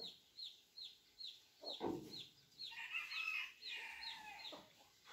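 A bird peeping over and over: short falling peeps, about three a second. More calls join in around three seconds in, and a single dull knock comes just before two seconds.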